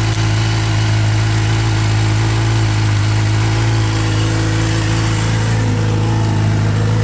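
2016 Suzuki GSX-R750's inline-four engine idling steadily through an aftermarket Yoshimura exhaust, running again after its dead battery was recharged.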